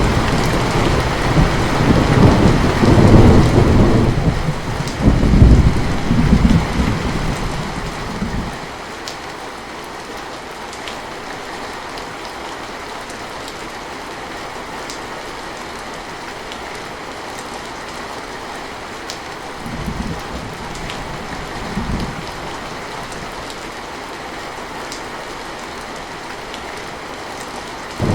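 Heavy rain falling steadily, with thunder rolling loudly for the first eight seconds or so before dying away. Later, two brief low rumbles of thunder come a couple of seconds apart under the rain.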